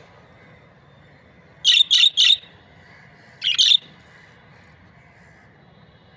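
Budgerigar calling: a quick run of three short chirps, then two more about a second later.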